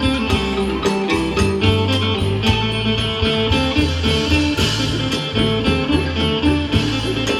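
Isan pong lang band playing a lively instrumental piece, with plucked string melody lines, a repeating bass figure and a steady percussion beat.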